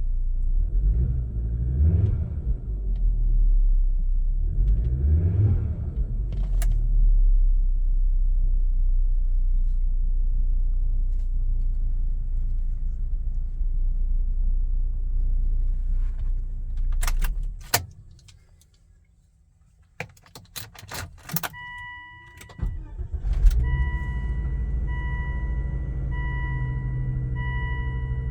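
Volvo V70R's turbocharged five-cylinder engine idling and blipped twice, then switched off. After a few clicks and a key jingle, a chime starts beeping repeatedly, and the engine restarts with a loud catch and settles back to idle while the chime keeps beeping.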